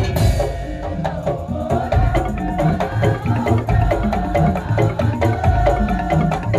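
Madurese tong-tong (ul daul) percussion ensemble playing an arrangement: a busy rhythm of wooden knocks and drums under a repeating pitched melody, with a crash just after the start.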